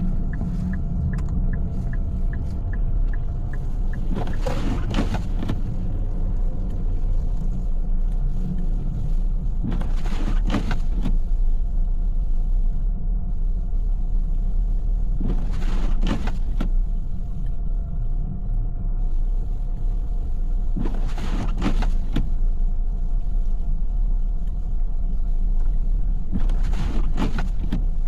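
Car cabin interior while driving, with a steady low road and engine rumble. A roughly one-second swish comes about every five and a half seconds, like windshield wipers sweeping on an intermittent setting, and there is a run of quick ticks in the first few seconds.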